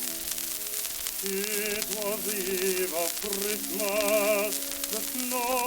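Early shellac phonograph record playing a slow musical passage: held chords, then from about a second in a melody with strong vibrato. Steady surface hiss and crackle from the old disc run underneath.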